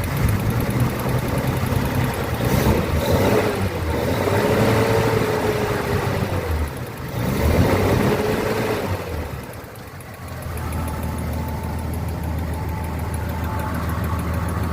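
1942 Lincoln Continental's V12 engine idling steadily, running on a partly built exhaust system, with the sound dropping briefly about seven and ten seconds in.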